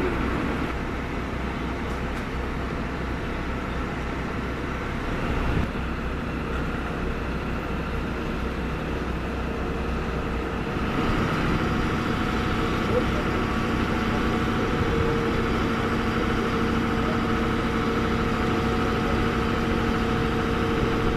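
Fire truck engine running steadily, getting louder and more pitched about halfway through.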